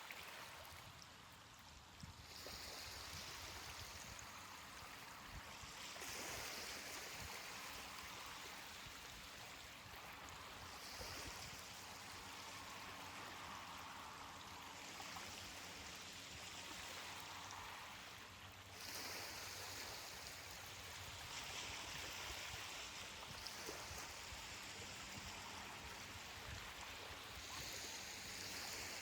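Ocean waves washing onto a beach: a faint, steady hiss of water that swells again every four to five seconds as each wave comes in.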